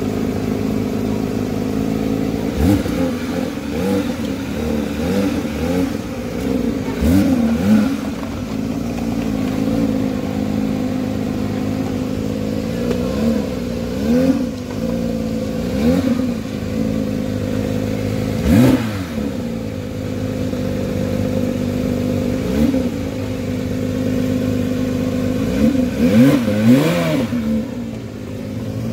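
Porsche 911 Speedster's 4.0-litre flat-six idling, with about a dozen short throttle blips that rise and fall in pitch. The sharpest blip comes about two-thirds of the way through, and a quick run of three comes near the end.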